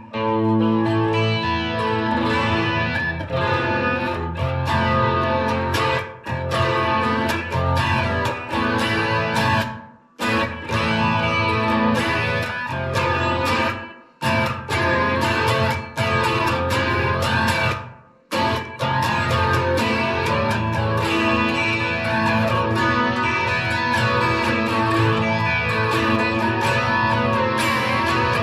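Electric guitar, a Fender Stratocaster, played through a Fender Mustang GTX100 modelling amp on a factory preset. Full chords ring out and are cut off short three times, each stop followed by the next chord.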